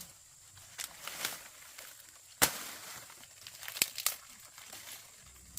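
A few short, sharp clicks or knocks, the loudest about two and a half seconds in.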